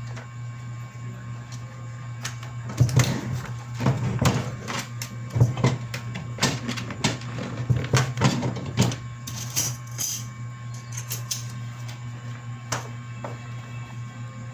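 Printer running: a steady hum, with a run of irregular clicks and clacks from about two seconds in to about nine seconds, then a few more near the end.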